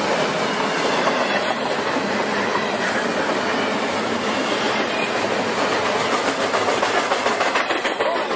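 Long freight train's cars rolling past at speed: a steady rumble and rattle of wheels on rail, with a regular clickety-clack over the rail joints.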